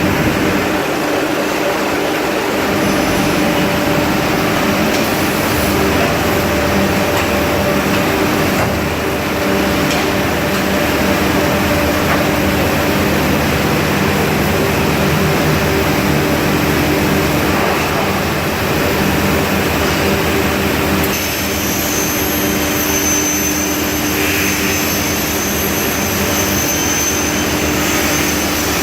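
Hot log shear and billet furnace machinery running: a steady loud roar with a steady hum, joined about 20 seconds in by a high thin whine.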